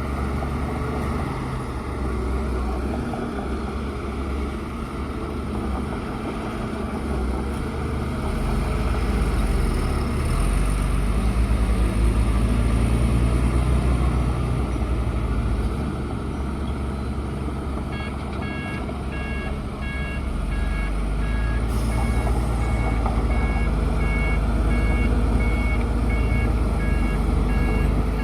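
Bulldozer's diesel engine running under changing load, working harder in the middle and again near the end. From about two-thirds in, its backup alarm beeps about once a second as the dozer reverses.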